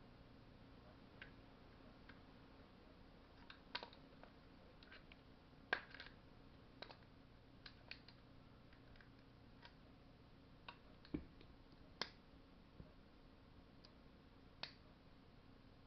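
Scattered light clicks and taps of small metal parts and tools being handled, about a dozen spread irregularly, over a faint steady hum.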